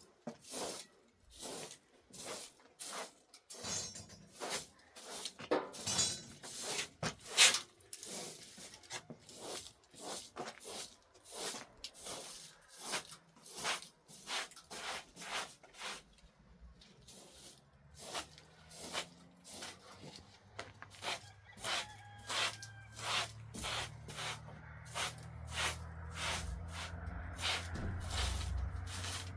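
A series of sharp, irregular knocks or scraping strokes, one or two a second, as from handwork. A low steady hum comes in over the second half and grows louder toward the end.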